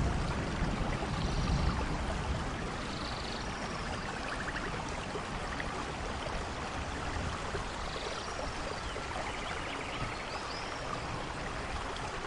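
Steady rain, with the low rumble of thunder dying away over the first couple of seconds. Faint short high chirps come now and then over the rain.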